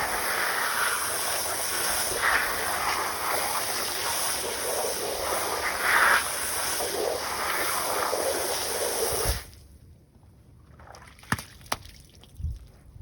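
Garden hose spraying water onto rubber car floor mats, rinsing the soap off, with the splashing rising and falling as the spray moves. The water cuts off suddenly about nine seconds in, followed by a couple of light clicks.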